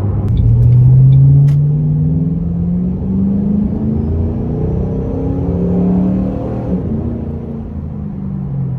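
A 2006 Ford Mustang's Roush Extreme axle-back exhaust under acceleration. The exhaust note is loudest about a second in and rises in pitch, then drops at a gear change about three seconds in. It rises again, then falls away as the car eases off.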